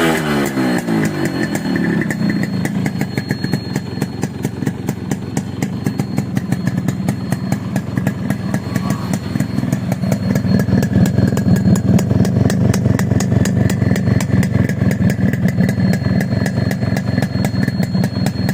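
Yamaha RX100's two-stroke single-cylinder engine dropping from a blip of revs into a steady idle, a little louder from about halfway through.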